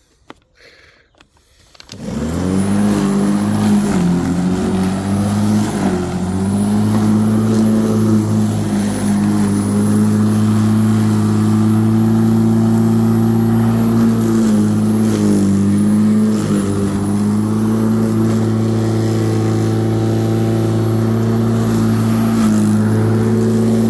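Black & Decker 1800 W electric rotary lawnmower starting up about two seconds in and running steadily with a high motor whine. Its pitch dips briefly a few times as the blade meets thick, tough grass.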